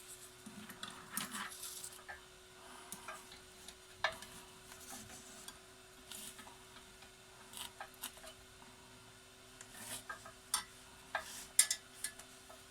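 Small metal tools clicking and clinking lightly against a bench and circuit board, in scattered taps that come more often near the end, over a faint steady hum.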